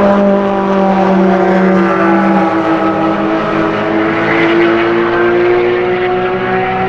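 Sports car engines at high revs on a racetrack, a steady drone whose pitch slowly rises. A lower engine note drops out about two and a half seconds in.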